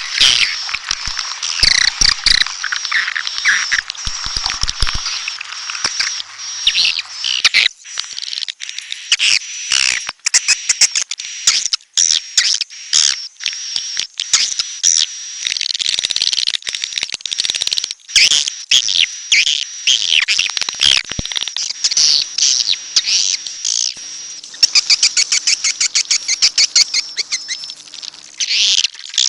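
Swiftlet calls from a swiftlet-house lure recording: a dense, continuous chatter of rapid chirps and buzzy twitters, with a steady high tone running under much of it.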